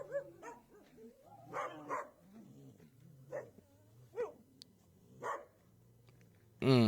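Dogs barking and yelping in short separate calls, with a louder call near the end.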